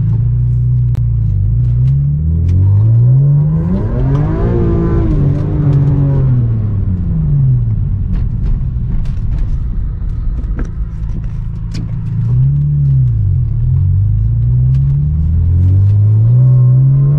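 Car engine running under way, its pitch rising and falling several times as the car accelerates and slows.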